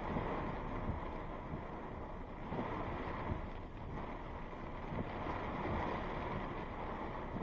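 Steady rush of wind, fluctuating in gusts, with wind buffeting the microphone; no thunderclap stands out.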